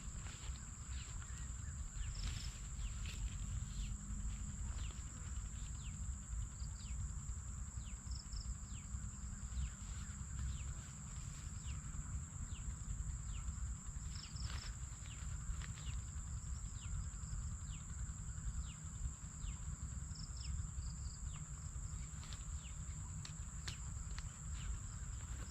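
Insects, such as crickets, trilling in a steady high drone over a low rumble, with faint scattered clicks and a few short chirps.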